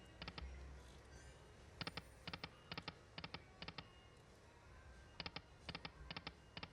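Faint clicking from a casino video slot machine, in quick groups of three, about two groups a second, with a pause near the middle.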